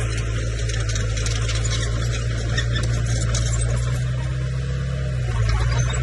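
Bulldozer's diesel engine running steadily with a low, even note that shifts slightly near the end.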